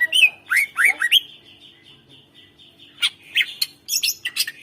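Green leafbird (cucak ijo) singing a loud, rapid string of sharp chirps and squawky, sliding notes in two bursts, with a pause of about two seconds between them.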